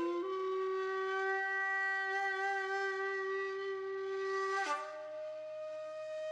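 Background music: a woodwind such as a flute playing long, held notes with a breathy attack, changing to a higher note just under five seconds in.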